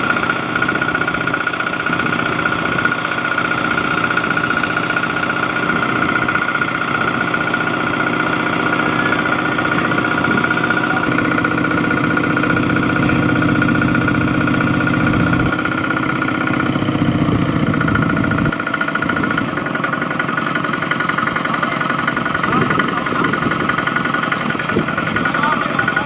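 Tractor engine running steadily, with a deeper engine note added for a few seconds about two-thirds of the way through.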